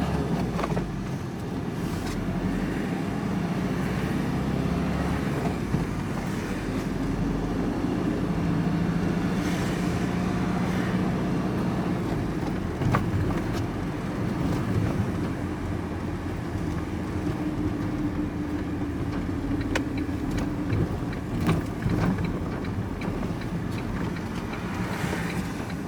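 Vehicle engine and road noise heard from inside the cab while driving. The engine note shifts in pitch as the vehicle speeds up and eases off, with a few brief knocks from the cab.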